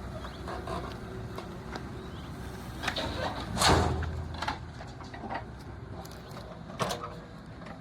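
JCB 3DX backhoe loader's diesel engine running steadily, with one loud crash a little over halfway through and a sharper knock near the end, the sounds of its bucket at work.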